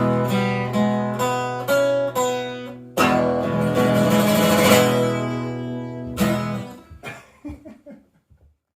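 Acoustic guitar strumming, ending on a final strummed chord about three seconds in that rings out and fades away, with a few faint taps as the strings die down.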